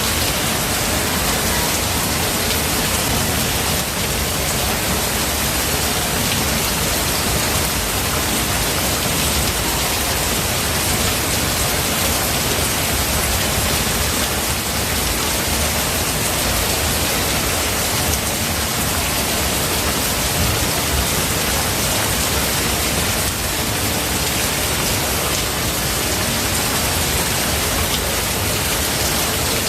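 Steady rain falling, an even, unbroken hiss of many drops with no single louder event.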